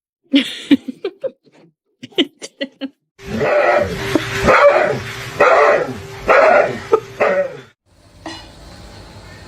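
A dog yipping and barking: a few short yips, then a run of louder barks about once a second.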